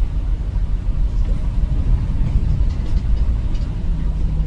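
Low, steady rumble of a car on the move.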